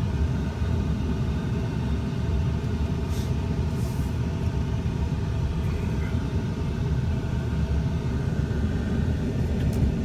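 A vehicle driving slowly on a ranch road: a steady, low rumble of engine and road noise.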